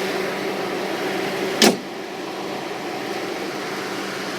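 1999 Mitsubishi Lancer GLXi's 1.6-litre SOHC 16-valve four-cylinder idling steadily, with one sharp bang of the hood being shut about a second and a half in. After the bang the idle is quieter and more muffled.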